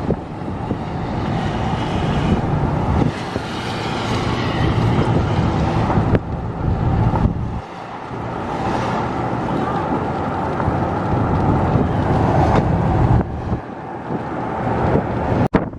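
Car driving at road speed: steady tyre, engine and wind noise, which cuts off abruptly near the end.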